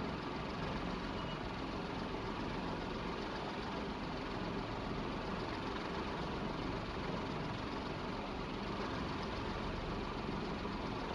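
1983 Evergo industrial ceiling fan with a cast iron motor running on high speed: a steady rush of air from the blades over the motor's low hum.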